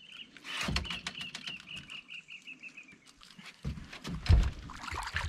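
A bird calling: a quick run of short, high notes, about five a second, drifting down in pitch and stopping about three seconds in, over scattered sharp clicks. Heavy low thumps follow near the end and are the loudest sound.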